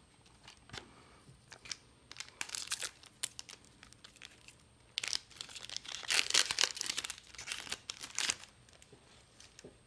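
Foil wrapper of a trading card booster pack crinkling as it is torn open, in bursts: a short one about two and a half seconds in and a longer, louder run from about five seconds in to near the end.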